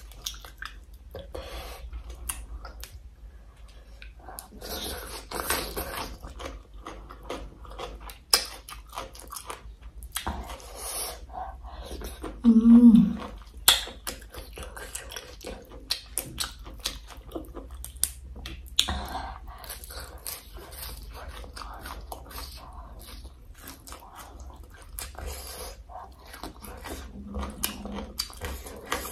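Close-miked chewing and lip smacking of someone eating cooked papaya with squid, shrimp and crab by hand: wet mouth sounds and many sharp little clicks. A brief louder hum comes about halfway through.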